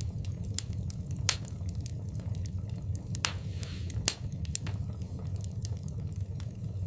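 Wood fire crackling in a fireplace: scattered sharp pops over a steady low rumble of flame, with a short hiss about halfway through.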